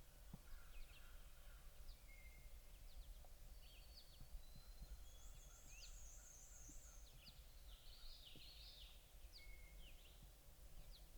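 Faint bird calls: scattered short chirps and whistles, a high trill about five seconds in and a buzzy call about eight seconds in, over a low steady background rumble.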